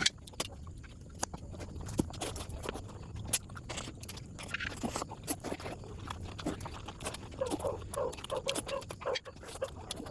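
Close-miked eating sounds: wet chewing and lip-smacking clicks, coming irregularly, as someone eats mutton curry.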